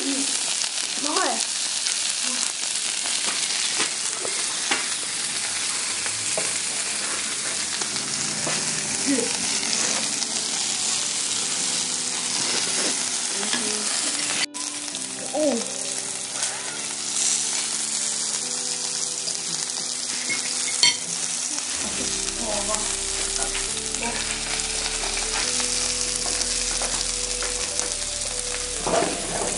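Food sizzling steadily in a hot frying pan, with a tune coming in quietly underneath about eight seconds in and a bass line joining later.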